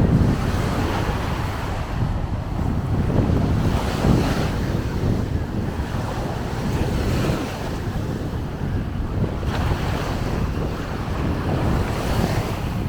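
Sea waves washing onto the beach, swelling every few seconds, with wind buffeting the microphone.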